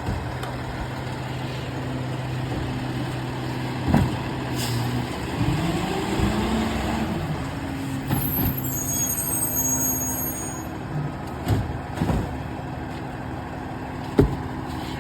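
Garbage truck working at the curb: its diesel engine runs steadily, rising and falling in pitch about six seconds in. A high squeal comes in about halfway through, and there are several sharp clanks and knocks.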